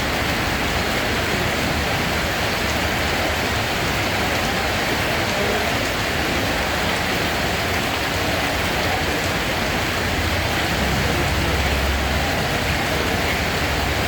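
Steady, heavy rain falling, a dense even hiss with no breaks. A low rumble swells up and fades out again about two-thirds of the way through.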